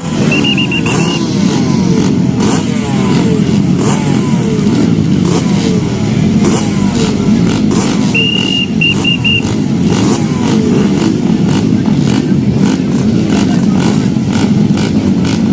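Motocross dirt bike engines revving hard, their pitch repeatedly sweeping up and dropping as they are run through the gears. Two short runs of high pulsed beeps sound over them, about a second in and again about eight seconds in.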